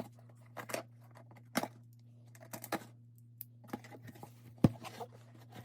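Hands opening a cardboard shipping box: scattered taps, clicks and rustles of cardboard and packing, with one sharp knock near the end.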